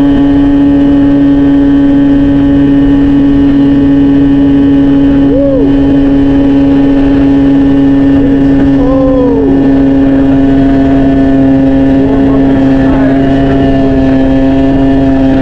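Honda 50cc two-stroke single-cylinder motorcycle engine running loud and steady, holding the same revs throughout.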